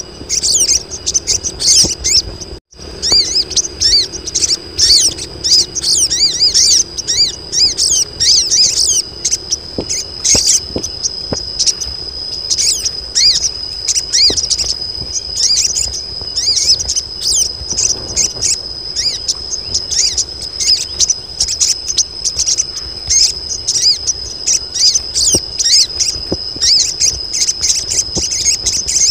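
Female crimson sunbirds (sogon) twittering and chirping constantly in a group, many short high calls overlapping: the calls of females in breeding condition that draw males in. A steady high insect whine runs underneath, and the sound drops out for an instant about two and a half seconds in.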